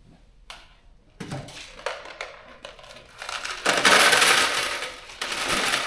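Small steel bolts and nuts clinking together as they are handled and dropped into kit compartments: a few separate clinks at first, then a loud, continuous rattling clatter from about three seconds in, as if a handful is poured.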